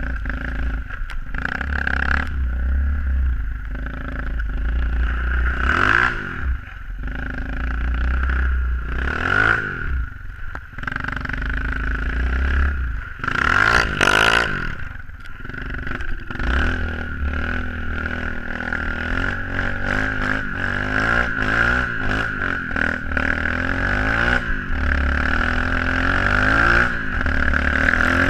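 SSR 125cc pit bike's single-cylinder four-stroke engine being ridden, revving up and dropping back several times with the biggest rise about halfway through, then running more steadily. Frequent short knocks and rattles come through over it.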